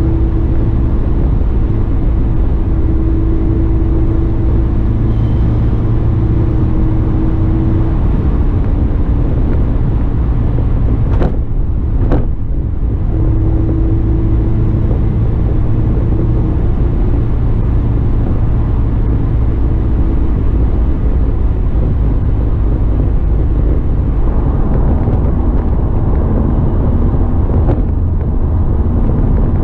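Inside the cabin of a 2007 Honda S2000 on the move: the 2.2-litre four-cylinder engine hums steadily at cruise over a constant road and tyre rumble. Two short clicks come a little over eleven and twelve seconds in.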